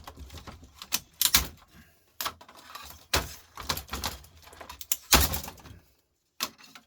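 Irregular clicks and knocks of the plastic and metal parts of an old record player being handled and pried apart with a screwdriver.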